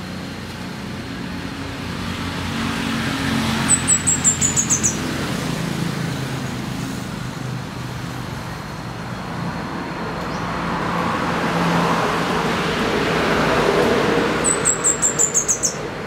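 Scarlet-headed flowerpecker singing twice, each phrase a quick run of about eight very high, slightly falling notes lasting about a second. Road traffic runs steadily underneath, swelling as vehicles pass.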